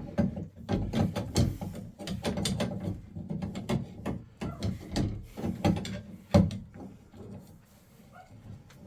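Hand tools and small metal parts clicking, scraping and knocking as they are handled, dense for most of the time, with one sharp knock about six and a half seconds in, then quieter.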